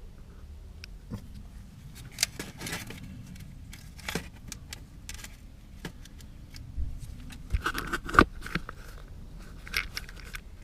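Metal tools and parts clinking and rattling as they are handled, in short scattered bursts, with a sharp knock about eight seconds in.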